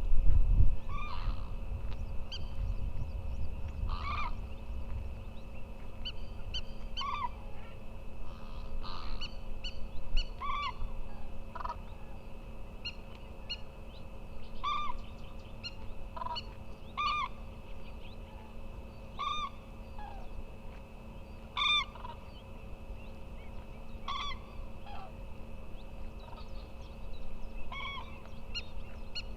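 Greater flamingo giving short, goose-like honking calls, repeated every second or two, over a low wind rumble that fades after the first few seconds.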